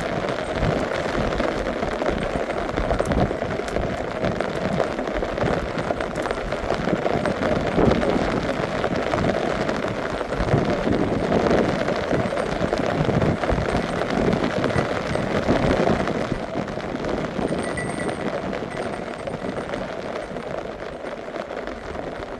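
Rain falling steadily, easing slightly near the end.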